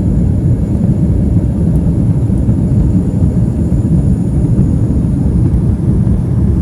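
Steady, loud rumble of an airliner in flight, its engine and airflow noise heard inside the passenger cabin.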